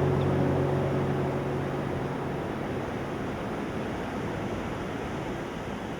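Final strummed acoustic guitar chord ringing out and fading away over the first two seconds, leaving a steady rushing noise like surf.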